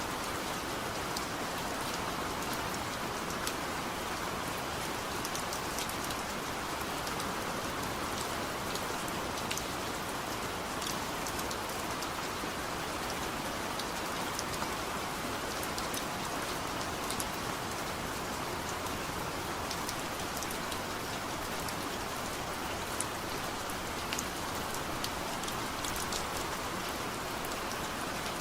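Heavy rain falling steadily, a dense even hiss with sharp individual drop splats scattered through it.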